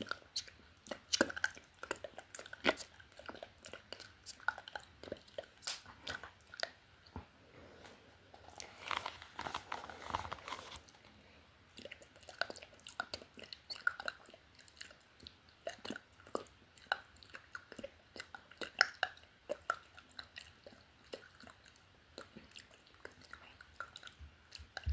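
Close-miked ASMR mouth sounds: wet tongue and lip clicks and smacks in quick, irregular succession, with a breathy, whisper-like stretch about nine seconds in.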